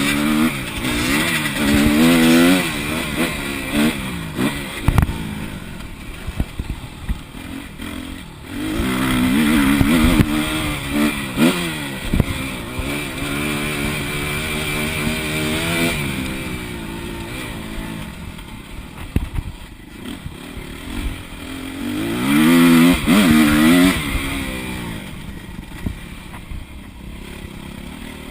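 Motocross bike engine, heard onboard, revving hard and easing off again and again as the rider opens and closes the throttle and shifts gears, with three loud surges of acceleration. A few sharp knocks come through along the way.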